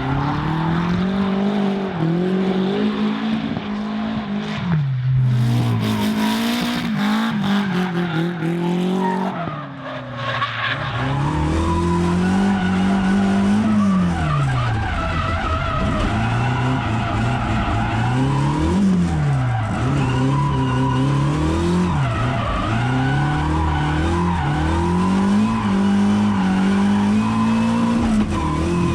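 BMW S63B44 4.4-litre twin-turbo V8 in a 1M Coupe drift car, running through very short exhausts, revving up and dropping back again and again as it drifts, with tyres skidding.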